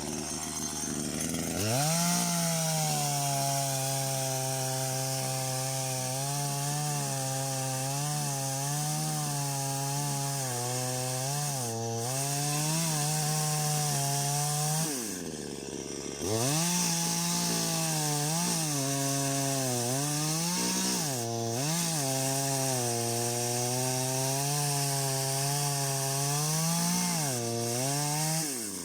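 Two-stroke chainsaw held at high revs while cutting wood, its pitch sagging slightly each time the chain bites. About fifteen seconds in it falls away briefly, then revs straight back up and keeps cutting.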